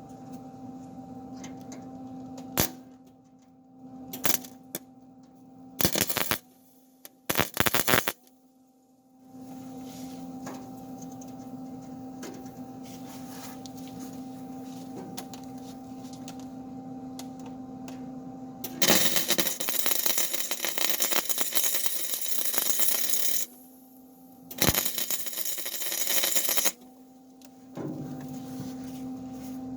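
Electric welder's arc crackling as steel angle is tack-welded to the backhoe: two brief tacks a few seconds in, then two longer welds of about four and two seconds later on, with a steady hum between them.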